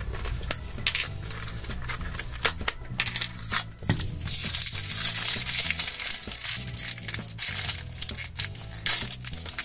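Plastic blind-bag wrapping from an L.O.L. Surprise ball crinkling and tearing as it is opened by hand, a dense run of sharp irregular crackles.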